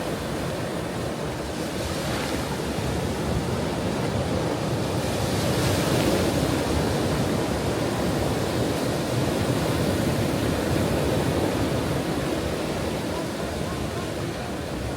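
Ocean waves breaking on a shore: a steady wash of surf that swells louder about six seconds in and then eases back.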